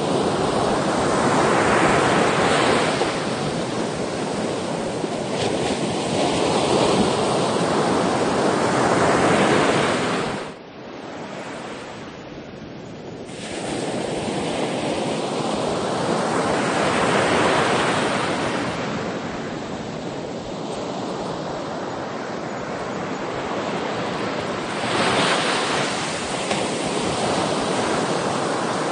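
Sea waves surging and breaking in repeated swells, a wash of surf noise that rises and falls every few seconds, with a quieter lull about ten seconds in.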